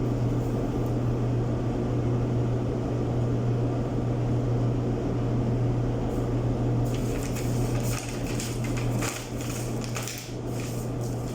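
Clothes dryer running with a steady hum, its drum turning on a newly replaced bearing housing that had worn out and made it noisy. From about seven seconds in, clicks and rustling come over the hum.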